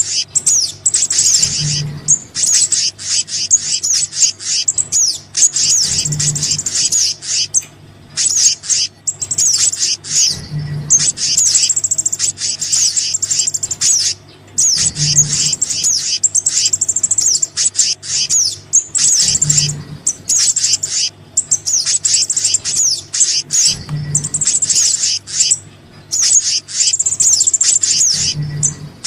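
Bird-lure recording of small songbirds' calls, meant to draw small birds down: rapid, high-pitched chirps and trills in repeating phrases with short pauses between them. Under the calls is a steady low hum and a soft low pulse about every four and a half seconds, which is typical of a looped track.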